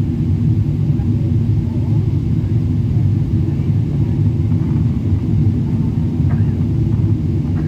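Steady low rumble of an airliner's engines and airflow heard inside the passenger cabin, with a couple of faint clicks near the end.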